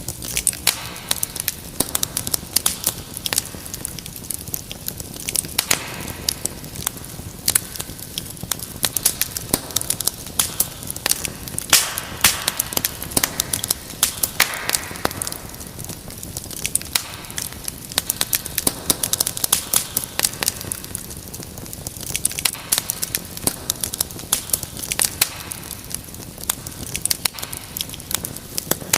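Wood fire crackling: a dense, irregular run of sharp pops and snaps over a soft low rumble of burning.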